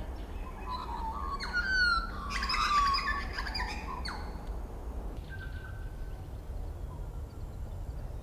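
Birds calling in the treetops: a burst of warbling calls with gliding notes between about one and four seconds in, then a few fainter calls, over a low steady rumble.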